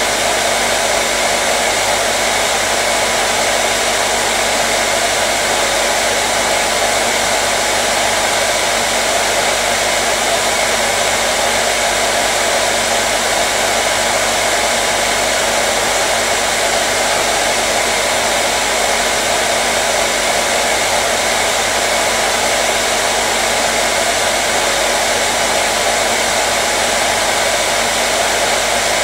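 Hair dryer running steadily, a constant airflow hiss with a low motor hum, played continuously as white noise to soothe a colicky baby.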